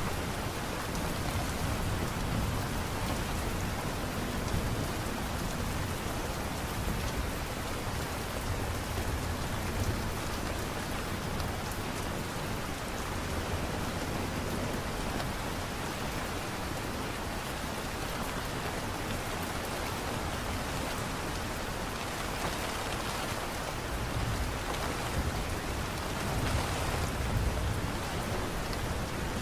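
Steady light rain, an even hiss, with low rumbling swells now and then.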